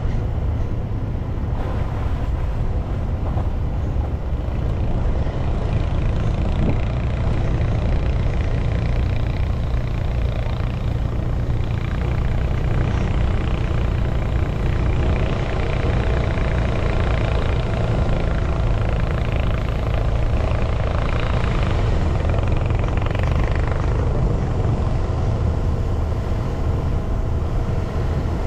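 A car driving: a steady low engine and road rumble, with tyre noise that swells and fades.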